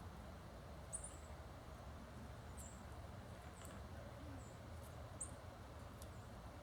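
Small songbirds giving short, very high chip calls, several scattered through, faint over a low steady background rumble.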